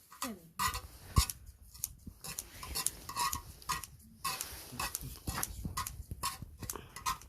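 Cooking utensils scraping and clacking on an upturned cast-iron cauldron lid (sotttukkeong) as fried rice is stir-fried on it, in quick irregular strokes, with one sharp knock about a second in.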